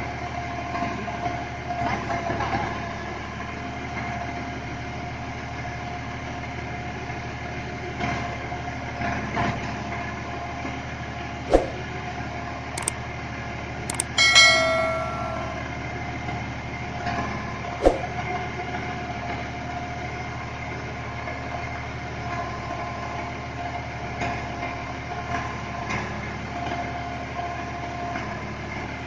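Tractor engine running steadily while working a piling hole-digger, with a few sharp knocks near the middle and a short high-pitched tone about halfway through.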